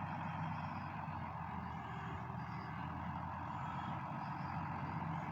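International Harvester 886 tractor's diesel engine running steadily, driving a round hay baler through the PTO.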